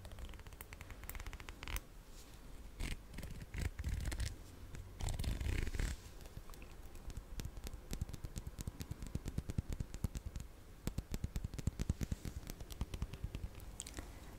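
Close-miked ASMR scratching and rapid crackling clicks. There is a longer scratchy stretch about five seconds in, and a fast run of fine crackles in the second half.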